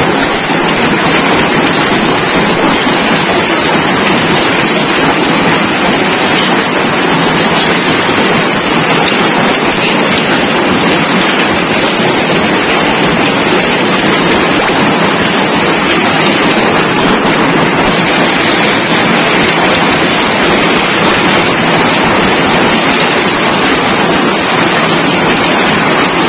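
Heavy storm rain pouring down in a steady, loud hiss, with no breaks or sudden cracks.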